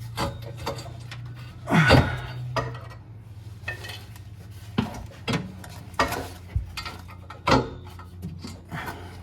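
Metal exhaust parts clanking and scraping against each other as a Mini Cooper's exhaust section is twisted by hand to line it up on its seal gasket: several separate knocks and scrapes, with a steady low hum underneath.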